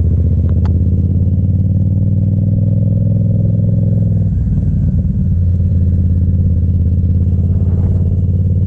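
Yamaha FZ-07's parallel-twin engine running at a steady speed, with a brief unsteady moment about four seconds in before it settles again.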